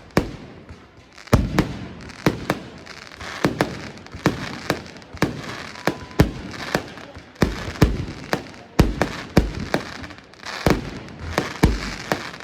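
Fireworks display: a rapid, irregular series of sharp bangs, about two a second, with a noisy wash between them.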